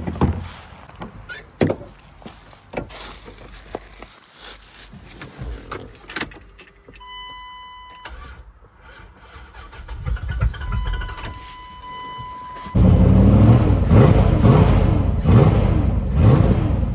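Dodge Durango engine, left sitting for some time, cranked and catching about thirteen seconds in, then running and revving up and down. Before it, clicks and knocks of handling the keys and controls and two steady electronic chime tones.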